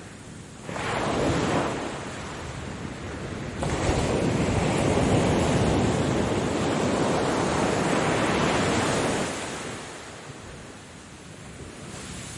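Ocean waves breaking and washing up the shore. A short surge comes about a second in, then a louder, longer wash runs from a few seconds in until near the end, where it fades back.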